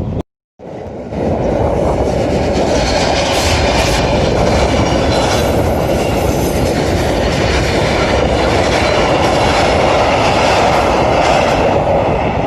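A train running past on the rails: a steady, loud rumble of wheels and running gear with some clickety-clack. The sound drops out for a moment just at the start, then comes straight back.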